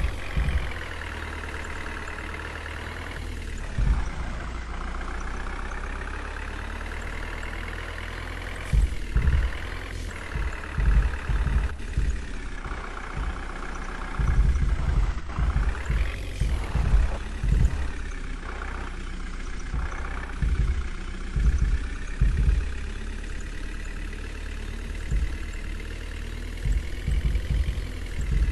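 Heavy diesel engine of a truck or crane running, its pitch rising and falling several times as it is worked, with repeated low thumps and rumbles underneath.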